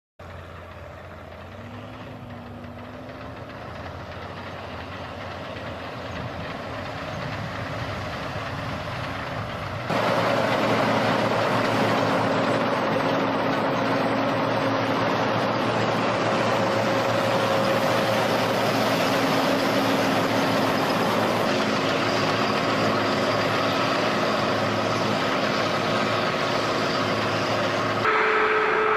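Heavy tractor engines working under load while plowing, a steady drone that grows louder over the first ten seconds. The sound changes abruptly about ten seconds in and again near the end.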